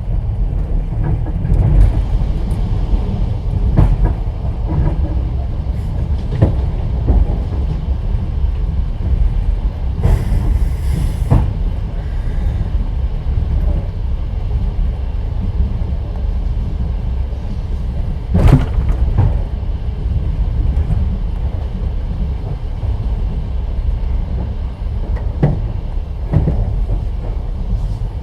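Passenger train running, heard from inside an open-plan sleeping carriage: a steady low rumble with the wheels knocking over rail joints now and then. A brief hiss about ten seconds in.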